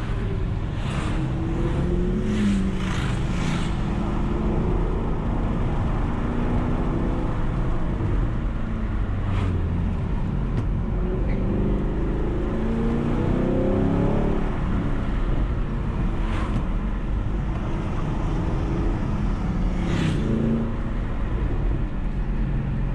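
Chevrolet Camaro SS V8 engine pulling hard on a twisty road. Its pitch rises and falls several times as it accelerates and lifts off, over a steady low rumble of engine and tyres, with a few sharp ticks.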